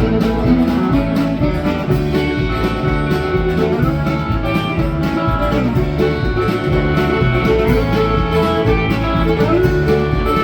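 Country song's instrumental break with no singing: guitars playing over a steady, repeating bass line.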